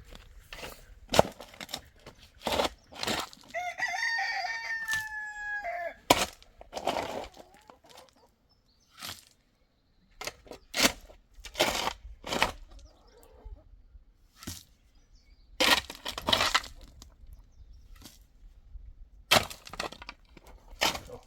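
A rooster crows once, a long call of about two seconds a few seconds in. Around it come repeated sharp knocks and scrapes.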